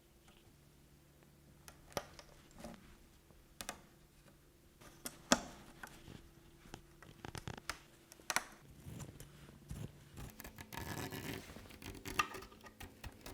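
Scattered clicks, taps and scratches from hands handling rug-making materials and tools, with a longer scratchy rustle a little past two-thirds of the way through. A faint steady hum runs underneath.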